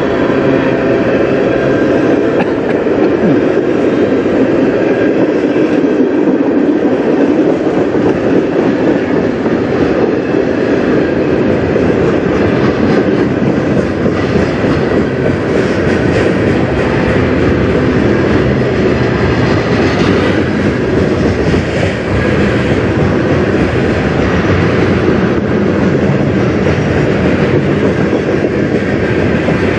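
Freight train cars, tank cars and then centerbeam flatcars loaded with lumber, rolling past at speed: a steady, loud noise of steel wheels running on the rails.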